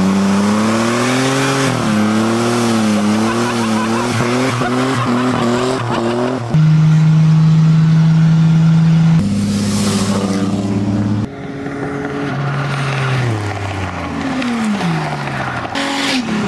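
Car engines in a string of short clips: an engine revving up and down while a rear tyre spins in a burnout, then an engine held at a steady high pitch at speed, heard from inside the car. After that, engine notes fall in pitch again and again as the cars shift and pass.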